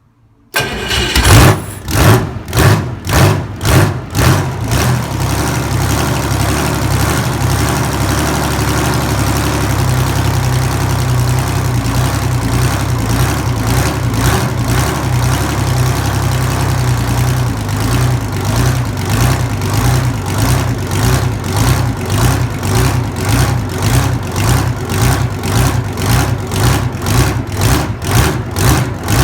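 Detroit Diesel 6V53N two-stroke V6 diesel cold-starting: it catches about half a second in and runs roughly, with strong uneven pulses, for a few seconds. It then settles into steady running, and in the second half a regular pulsing of about two beats a second sets in.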